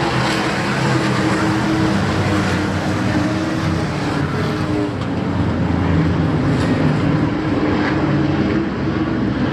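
Racing trucks' engines running at speed during a race, several engines at once with their pitch drifting up and down as they go around the track.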